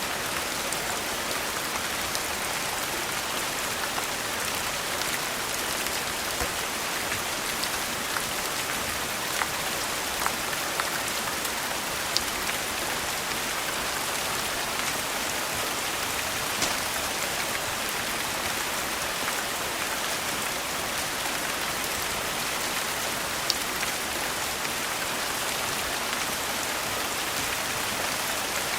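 Steady rain falling on a surface, an even hiss with a few sharp isolated clicks scattered through it.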